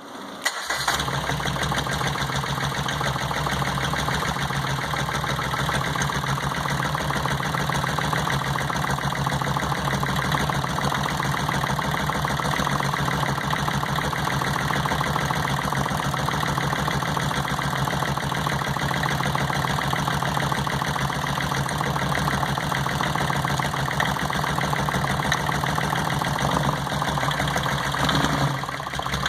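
Engine idling with a misfire on cylinder number one, running with a steady pulsing beat. The level dips briefly near the end.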